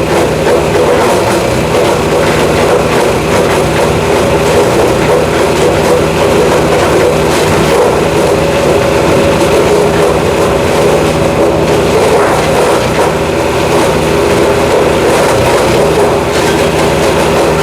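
Jansen GTS-1500 wood chipper's 420cc gasoline engine running loud and steady.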